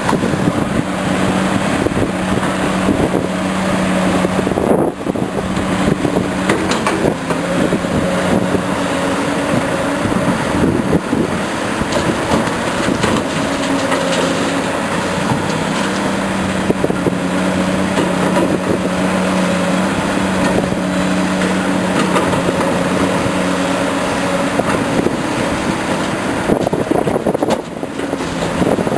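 Caterpillar 345C excavator's diesel engine running steadily with a droning hum that shifts slightly in pitch as the load changes, with scattered knocks.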